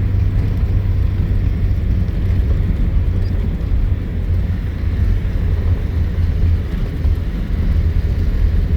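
Vehicle driving off-road over grassland, a steady low rumble of engine and tyres.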